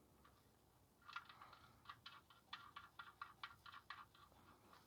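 Faint, quick clicking, about five light metallic ticks a second, as the 17 mm oil drain plug is put back into the oil pan.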